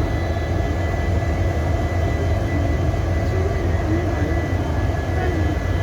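EMD-built WDP4D diesel locomotive's two-stroke V16 engine running with a steady deep hum and a steady high whine over it.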